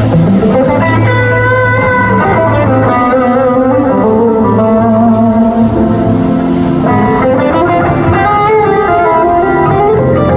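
Live electric guitar playing a melodic solo line of held, bending notes over a steady bass.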